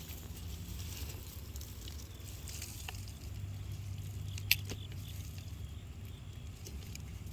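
Hands rummaging in loose straw and soil, a faint scattered rustling, with a sharp click about four and a half seconds in, over a steady low hum.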